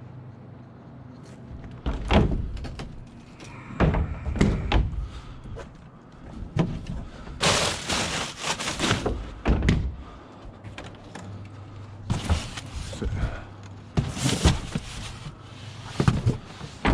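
Thumps, knocks and bangs of scrap items being handled and moved, with a longer stretch of scraping and rustling in the middle. A steady low hum runs underneath.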